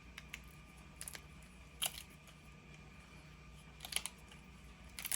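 A few light clicks and taps of cured resin pieces being handled and popped out of silicone molds, over a faint steady low hum.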